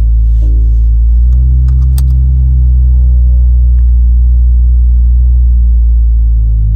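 Exhaust of an A90 Toyota Supra's 3.0-litre turbocharged inline-six, through a Leviathan turbo-back exhaust with resonators, idling steadily just after a cold start.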